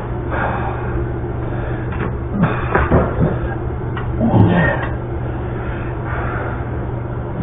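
Handling noise: a few dull knocks and some rustling, the loudest knock about four and a half seconds in, over a steady low hum.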